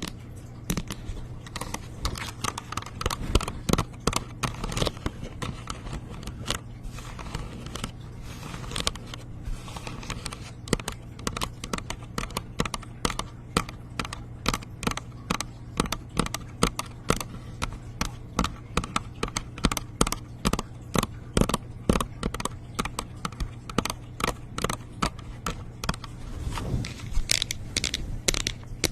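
Close-miked ASMR trigger sounds: a dense, irregular run of small clicks and scratches over a steady low hum.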